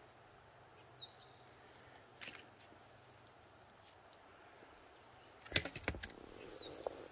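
A small bird calls twice, each call a quick falling note followed by a higher held note, about a second in and again near the end. From about five and a half seconds in, footsteps crunch on rocky, gravelly dirt.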